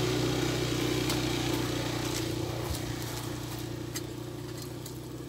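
Small engine idling steadily at an even low pitch, slowly getting quieter.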